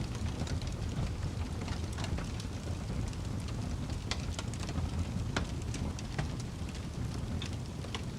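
Fire burning steadily, with a low rumble and irregular sharp crackles and pops scattered throughout.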